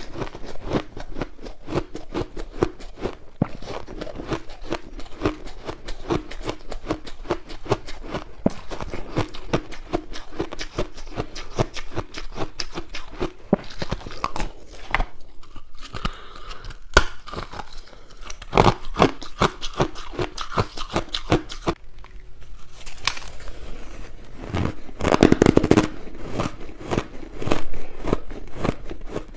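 Crushed ice being bitten and chewed close to the microphone: dense, rapid crunching and crackling, with short pauses and a few louder bites in the second half.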